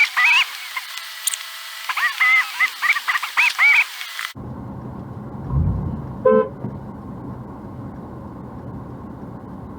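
A quick run of short honks, each rising and falling in pitch, stopping abruptly about four seconds in. A steady low rumble follows, with one brief pitched sound a couple of seconds later.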